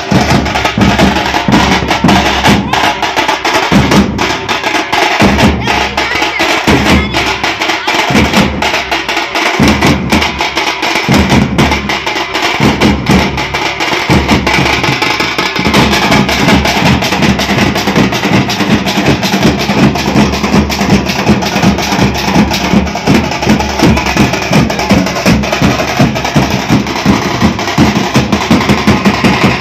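Drum troupe playing a fast, loud, continuous rhythm of rapid strokes. In the first half the deep beats drop out in short breaks, and from about halfway the playing is dense and steady.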